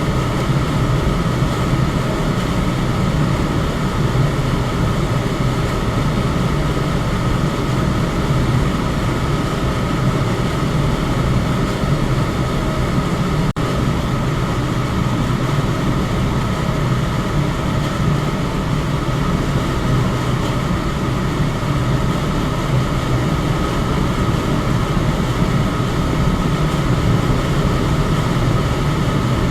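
Electric fan running steadily: an even whooshing hum with a low drone and a faint higher tone, broken only by a split-second dip about halfway through.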